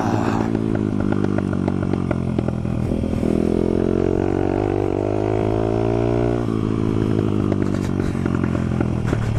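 Honda CRF100 dirt bike's small four-stroke single-cylinder engine running under throttle, its pitch rising about three seconds in and dropping again about six and a half seconds in. Short clatters and knocks from the bike over rough ground run through it.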